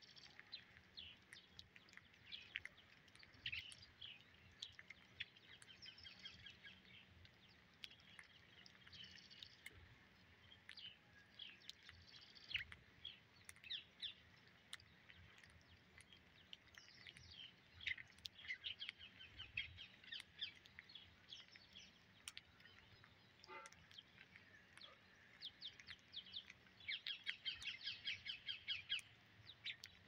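Birds chirping faintly in many short repeated notes, with a fast run of chirps near the end.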